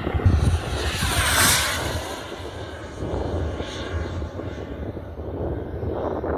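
Small propeller airplane's engine flying past, loudest about a second and a half in, then fading.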